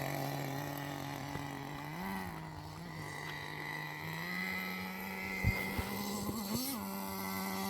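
RC10GT truck's nitro glow engine idling with a steady buzz, given two brief throttle blips that raise and drop its pitch. Its idle settles a little higher about four seconds in, and a couple of sharp knocks come about five and a half seconds in.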